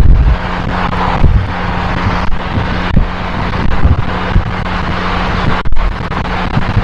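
Abarth 595C's turbocharged 1.4-litre four-cylinder running through an Akrapovic exhaust at a steady pitch while driving, with irregular wind buffeting on the microphone.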